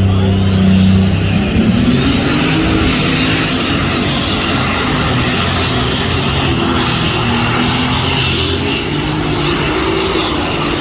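Pulling tractor's engine running hard, with a high whine that rises over the first couple of seconds and then holds steady.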